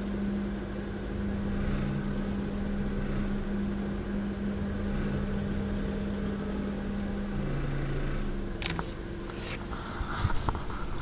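2003 Honda Civic EX running, heard from inside: a steady hum with a low drone that drops away about seven and a half seconds in. Near the end come a few scattered clicks and knocks.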